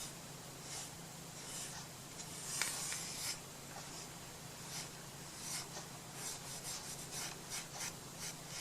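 Short scratchy rubbing strokes of a hand tool or brush worked against a surface, a few spaced out at first and then several in quick succession in the second half, over a faint steady hum.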